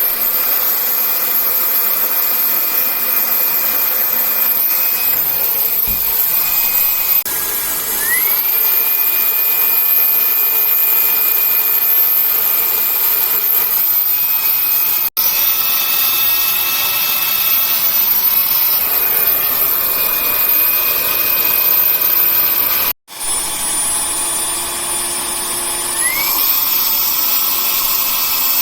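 Vax ONEPWR Blade 4 Pet cordless vacuum cleaner's motor running with a high whine. It cuts out briefly a few times and spins back up, its whine rising each time, a sign of the battery fault this machine has.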